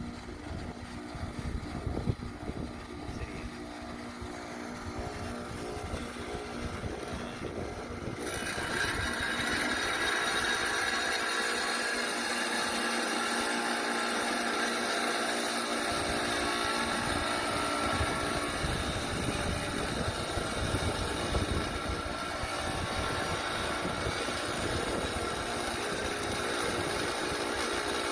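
Rock slab saw cutting an obsidian Apache tear: the saw motor runs with a steady hum, and about eight seconds in the blade bites into the stone and a loud, steady grinding hiss joins it and carries on.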